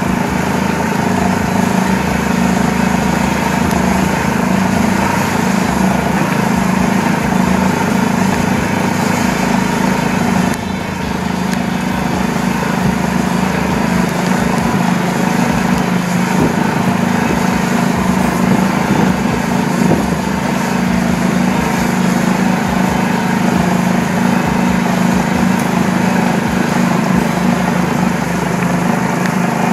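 Golf cart driving along with its motor running steadily, dipping briefly about ten seconds in.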